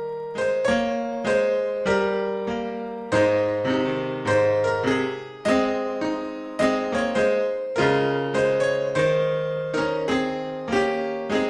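Piano-toned keyboard playing slow worship chords, each struck and left to ring and die away before the next, about two a second.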